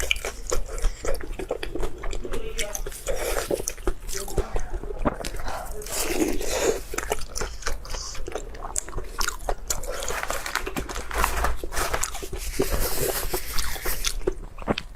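Close-miked eating: repeated biting and wet chewing with crunchy bites, dense little clicks and smacks throughout.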